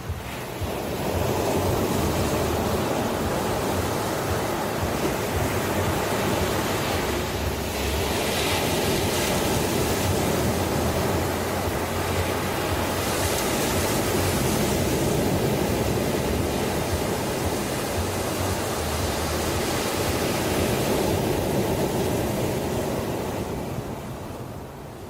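Ocean surf washing onto a shore: a continuous rushing noise that swells about a second in. It gets a brighter hiss twice along the way, once about a third through and again around the middle, and eases off near the end.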